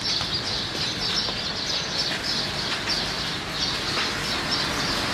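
Small birds chirping repeatedly over a steady background hum of outdoor noise.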